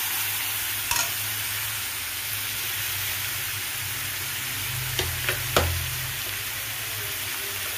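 Onion-tomato paste with ginger-garlic paste and turmeric sizzling in oil in an iron kadai while being stirred with a metal spoon. There is a steady frying hiss, with a few sharp clicks of the spoon against the pan about a second in and three more around five seconds in.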